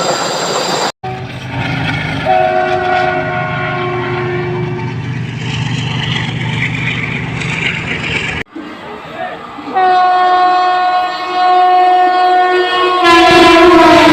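Electric or diesel locomotive horn of Indian Railways express trains sounding long blasts as they approach at speed, over the rumble of the train on the track. Near the end the loudest horn drops in pitch as the train passes.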